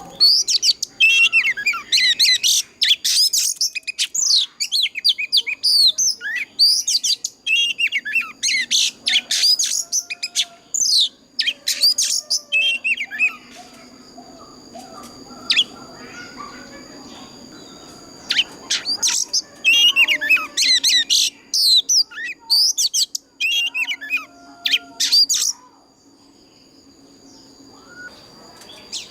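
Oriental magpie-robin singing a loud challenge song: rapid runs of varied whistles and chattering notes, with a pause about halfway through and again near the end. A faint steady high whine runs underneath.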